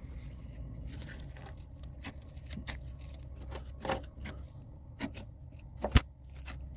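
Scattered light clicks and scrapes, with one sharp knock about six seconds in, over a steady low hum.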